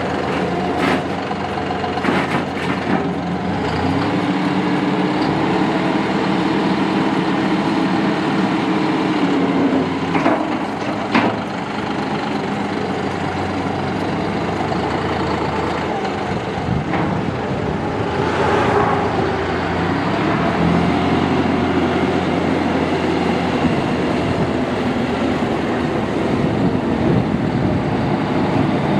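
A John Deere 5055E tractor's three-cylinder turbo diesel engine running, with its engine speed stepping up and back down a couple of times. A few sharp clicks or knocks sound in the first dozen seconds.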